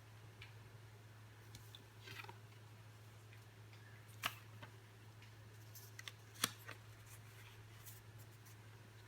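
Faint scattered clicks and ticks over a steady low hum, with two sharper clicks in the middle.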